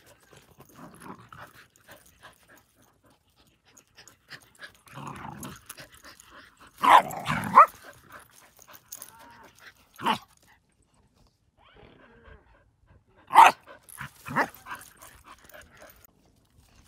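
Two terriers, an Airedale and a wire fox terrier, play-fighting, with low growls and a few short, loud barks. The loudest barks come about seven seconds in and again about thirteen seconds in.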